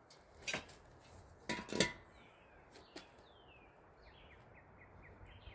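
Three sharp metallic clinks and knocks from exhaust parts being handled, the last ringing briefly. Birds chirp in the background, with a quick run of short chirps near the end.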